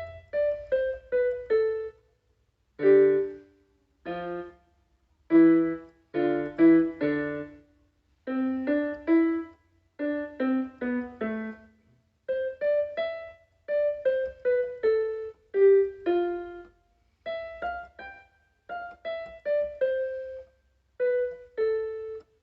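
Background music: a slow piano melody of short single notes played in small groups, each group followed by a brief silence.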